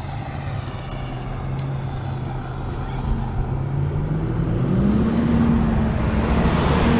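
A motor vehicle's engine running close by, getting louder, its pitch stepping up about four and a half seconds in and holding there.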